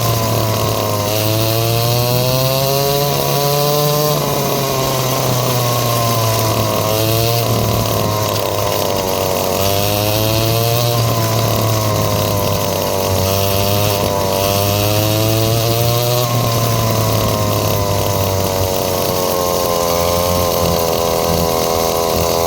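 Dirt bike engine running hard under a rider. Its pitch climbs and drops again and again as the rider revs and shifts through the gears.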